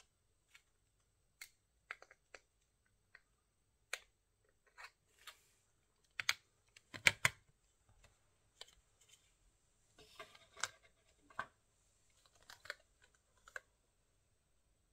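Irregular small clicks and taps on a laptop's plastic and metal parts, a few a second at most, with the loudest cluster of knocks about halfway through.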